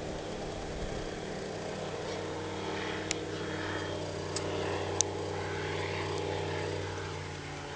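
Engine of a homebuilt experimental aircraft running steadily at a low speed, with three short sharp clicks about three, four and a half and five seconds in.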